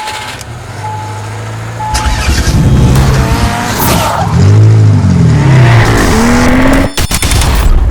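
Three short beeps about a second apart, then a car engine revving up and down several times, loud, with tire squeal.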